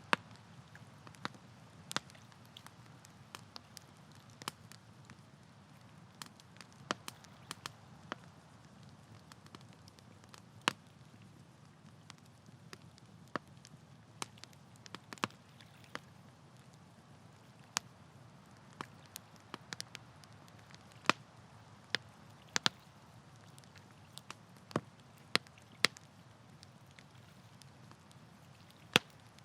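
Campfire crackling: irregular sharp pops and snaps of burning wood over a low, steady rumble of the fire.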